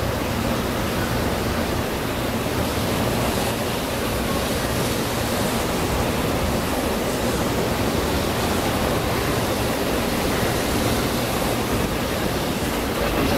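Tokaido Shinkansen train running past, a steady rushing noise of wheels and running gear with no clear motor whine.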